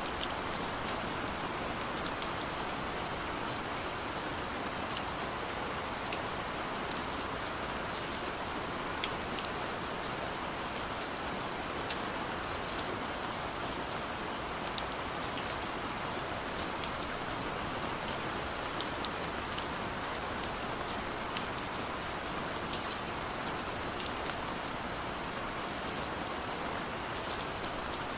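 Steady gentle rain: an even hiss of rainfall with scattered individual drops ticking sharply on a surface.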